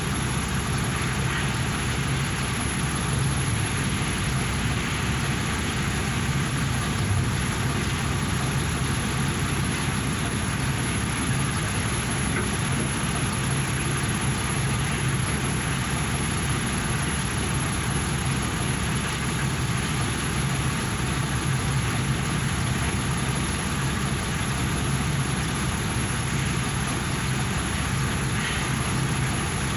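Engine idling steadily with an even, unchanging hum.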